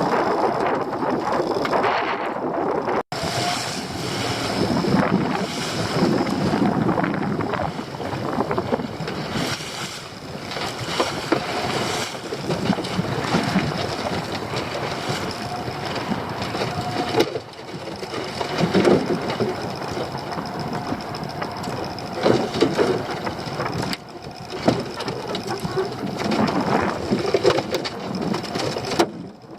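Wind buffeting the microphone over water and hull noise aboard a small fishing boat, with scattered knocks and clatters from the boat.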